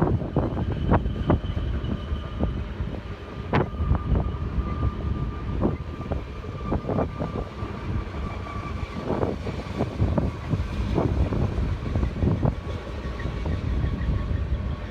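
Train passing close by: a steady low rumble with many sharp clanks and knocks through it, and a faint thin whine held through the middle.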